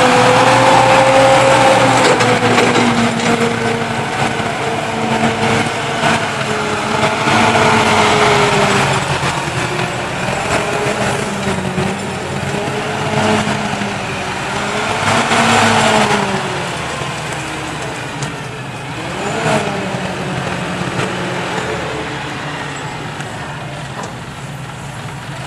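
Cat T150D forklift's LP-gas Perkins engine running, its speed rising and falling several times as the truck is operated, then settling lower near the end.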